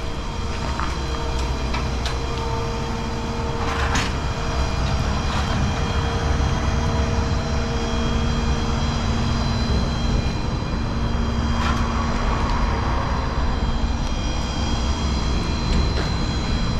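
A vehicle engine running steadily with a low rumble and a steady hum, with a couple of short knocks, one about four seconds in and one near twelve seconds.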